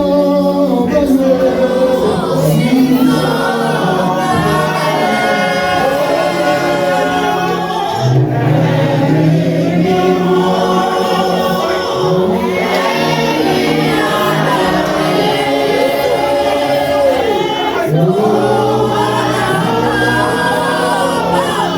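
Choir singing a gospel song in worship.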